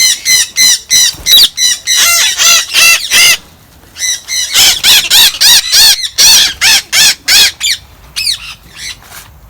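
Parrots screeching: harsh calls repeated rapidly, about four or five a second. They break off for about a second a third of the way in, start again, and thin out near the end.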